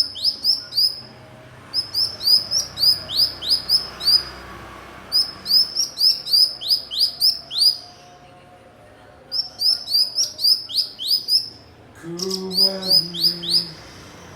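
Cucak cungkok singing: five bouts of quick, high whistled notes, six to eight in a row, each note sliding downward, with short pauses between bouts. A brief low hum sounds under the last bout.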